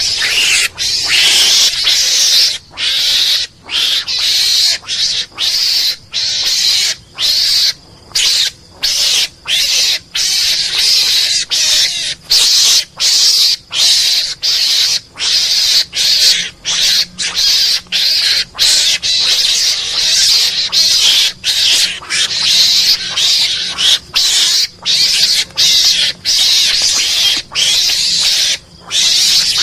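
Mongoose (garangan) lure call: a long run of hoarse, hissing calls, each broken off by a short gap, about two a second.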